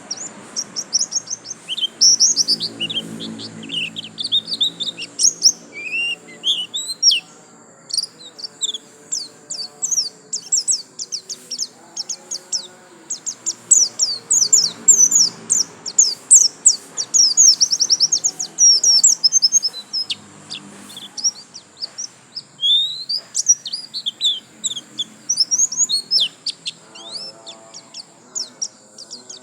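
A white-eye (pleci, Zosterops) singing: long, rapid runs of high chirps and twitters, phrase after phrase with only short breaks.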